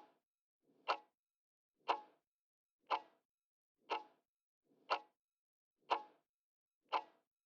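Clock-tick sound effect ticking once a second, eight ticks, counting down the time to answer a quiz question.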